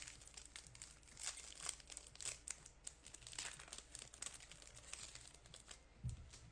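Faint crinkling and rustling of a foil trading-card pack wrapper and cards being handled, in irregular little crackles, with a soft low thump near the end.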